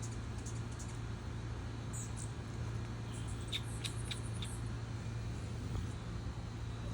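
Hummingbird giving a few short, faint, high chips, bunched together in the middle, over a steady low background hum.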